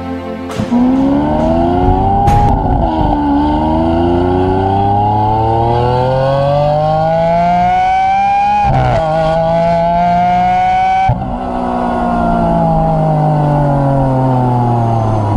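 Supercar engine accelerating hard, its pitch climbing through the gears with a quick drop at each upshift, about two and nine seconds in. Near the end it lifts off and the engine note winds slowly down.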